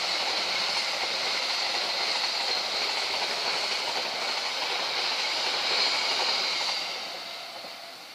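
Passenger coaches of a long train rolling past on the rails: a steady rush of wheel and running noise that fades over the last second or so as the train draws away.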